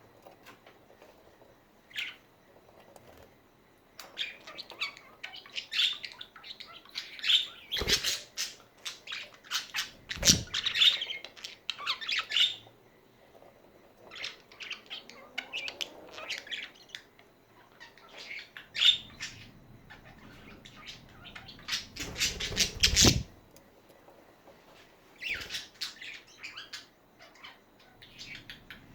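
Pet budgerigars chattering and chirping in irregular bursts, with a few brief louder flutters.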